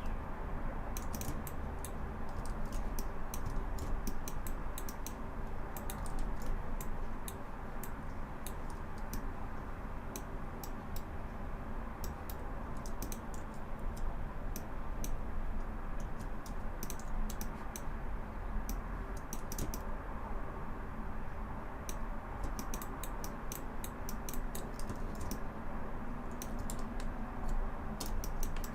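Computer keyboard keystrokes, irregular and in quick clusters, over a steady low hum.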